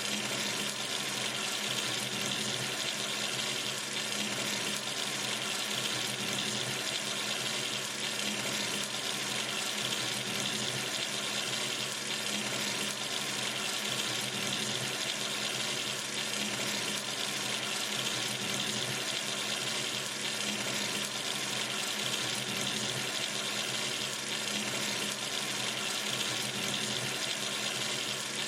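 Water running steadily from a sink tap, splashing into the basin as an even hiss.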